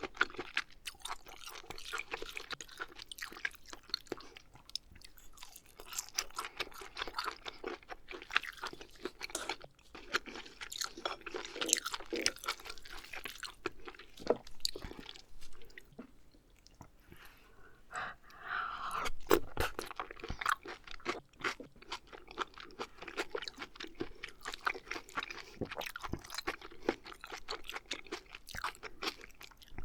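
Close-miked eating sounds of oysters being chewed: wet chewing and smacking with many small mouth clicks, a little louder for a moment about two-thirds of the way through.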